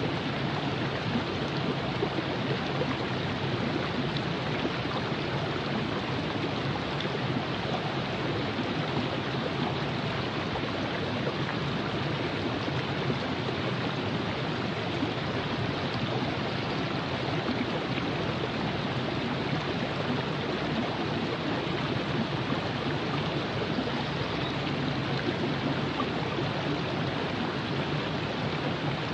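River water flowing over rocks in a steady, even rush: the Virgin River running through Zion Canyon.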